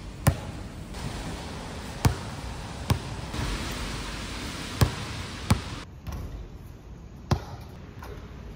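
A basketball bouncing on an outdoor court: six sharp thuds at uneven intervals, over a steady hiss of rain and wind.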